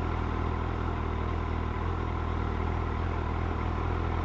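Suzuki Hayabusa inline-four motorcycle engine running steadily at an unchanging engine speed, heard from the rider's helmet camera.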